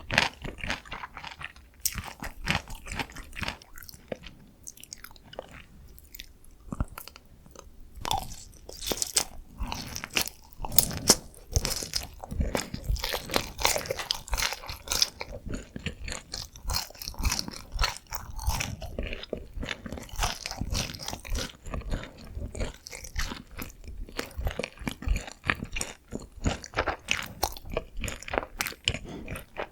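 Close-miked crunching and chewing of glazed Korean fried chicken (dakgangjeong): the crisp coating crackles in quick runs of sharp bites and chews, with quieter wet chewing in the short gaps.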